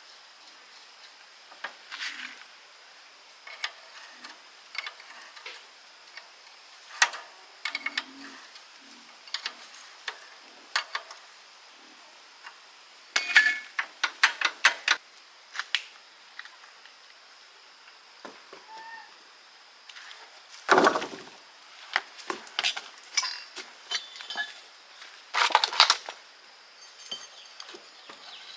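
Metal tools and gearbox parts being handled: irregular clinks, taps and clatters, with a few busier flurries of knocks midway and near the end.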